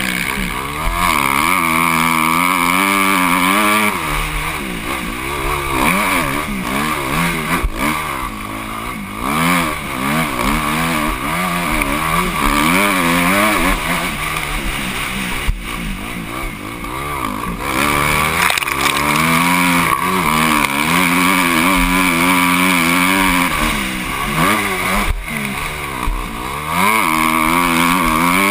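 Motocross bike engine heard from the rider's helmet, revving up and dropping back over and over as the throttle is opened and closed and gears are changed, with a hissing rush of wind and ride noise.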